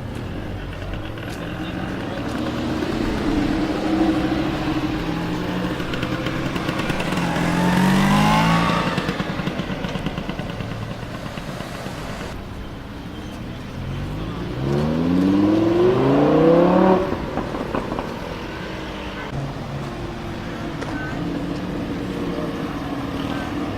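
Lamborghini Huracán LP610-4's V10 engine revving: a short rise in pitch about eight seconds in, then a longer, louder climb that cuts off sharply, with the engine running low between the revs.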